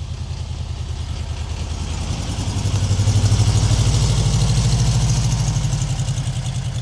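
Car engine and exhaust running with a fast, even pulse, growing louder about three seconds in and then easing off, as a car moving close by would.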